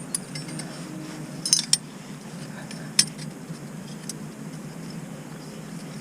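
A few light metallic clinks and taps: one just after the start, a quick pair about a second and a half in, and a single sharper one at about three seconds. They sit over a steady low background hum.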